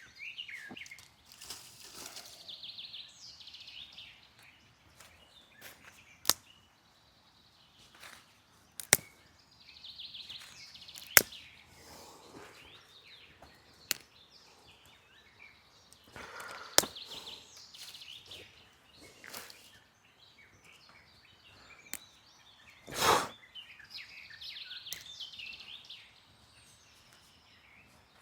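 Wild birds singing, short trilled phrases that come back every several seconds. Between them come several sharp single clicks or snaps, and one louder brief rustle or scrape near the end.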